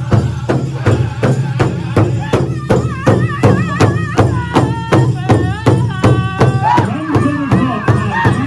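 Powwow drum group: a large drum struck in a steady beat, about two and a half beats a second, joined about two and a half seconds in by high-pitched, wavering group singing.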